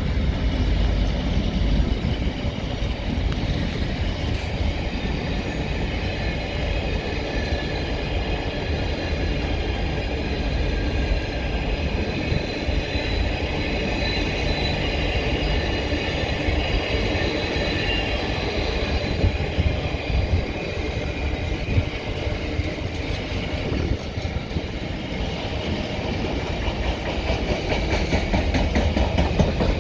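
A train moving along the track, with a steady low rumble and wheels clicking over rail joints. A faint high-pitched whine sits over it in the middle.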